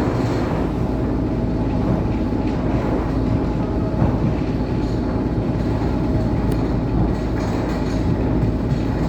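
ET2M electric train running at speed: a steady rumble of wheels on rail, with an occasional faint knock.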